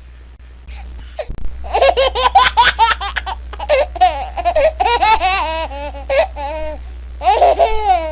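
A baby laughing: after a quiet first second, a long run of quick high-pitched giggling laughs breaks out, with a further bout near the end.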